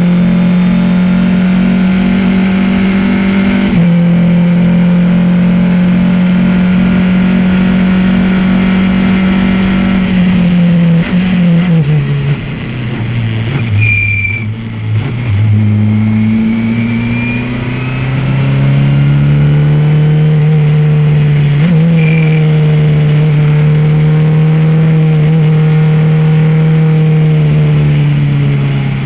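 Race car engine held at high, steady revs, then dropping in pitch as the car slows about ten seconds in. A brief high squeal comes at the low point, then the revs climb back and hold steady again before easing off near the end.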